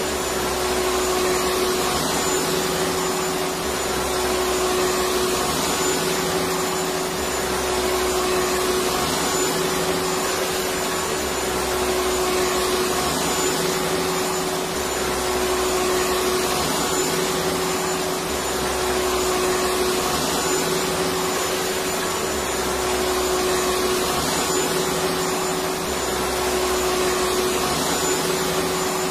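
Vacuum cleaner running steadily: a constant rushing noise with a steady motor hum, and a faint low pulse repeating about every two seconds.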